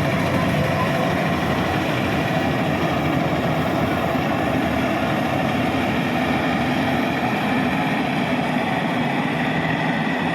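Rice combine harvester running steadily, its engine and harvesting machinery giving a continuous mechanical drone with a few faint steady whining tones over it.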